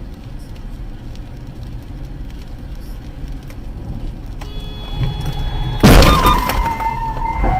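A car's road and engine rumble, then a loud crash of a collision about six seconds in, followed by a steady, slightly falling tone.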